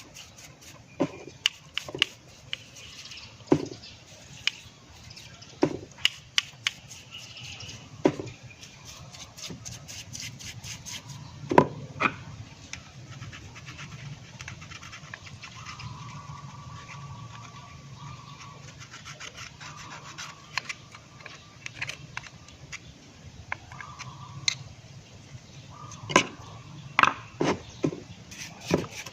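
Hands working on small carburetor parts from a rotovator's engine: irregular sharp clicks and knocks of small parts being handled, between stretches of rubbing and scrubbing as the carburetor is cleaned.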